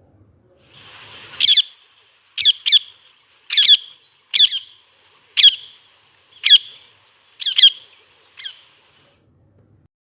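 Rose-ringed parakeet calling: a series of about nine short, harsh, shrill screeches, roughly one a second, the last one fainter.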